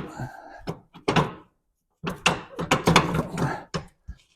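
Steel torsion bar clanking and knocking as it is slid into place and turned by hand, in two bursts of metal-on-metal thunks and rattles.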